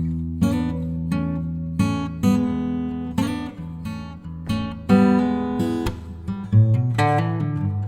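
Acoustic guitar music: chords plucked and strummed, each ringing on before the next.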